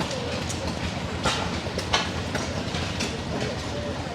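Antique stationary gas engines running together, a dense mechanical clatter broken by irregular sharp knocks.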